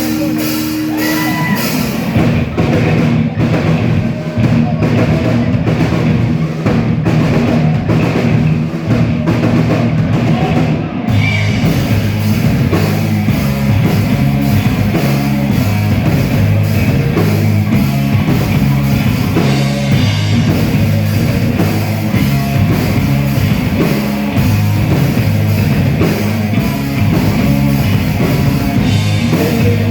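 Rock band playing live, with a steady drum kit beat under heavy rock instruments; the band sound gets fuller about eleven seconds in.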